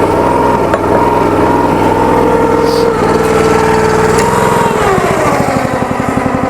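Log splitter's small engine running steadily; about four and a half seconds in its speed drops quickly and it settles into a slower, lumpier run.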